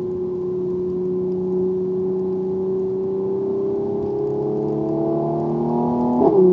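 Mercedes-AMG C43 sedan's twin-turbo V6, heard from inside the cabin, pulling under throttle. It holds steady at first, then rises in pitch from about four seconds in, and drops sharply near the end on an upshift.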